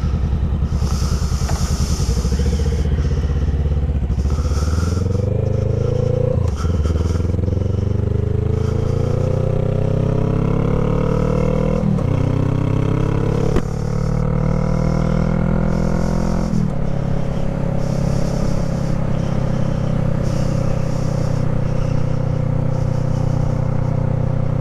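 Honda Rebel 500's parallel-twin engine idling, then pulling away and accelerating up through the gears. The engine pitch climbs in each gear, with upshifts about six, twelve, thirteen and a half and sixteen and a half seconds in. It then settles to a steady cruise.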